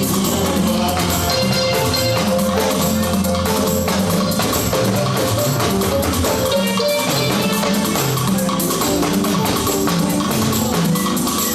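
Live church music with drums, tambourine and other percussion driving a steady beat, with keyboard or band instruments playing.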